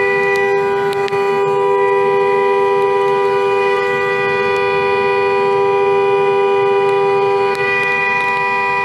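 A car horn held down continuously: a steady two-note blare that keeps the same pitch throughout.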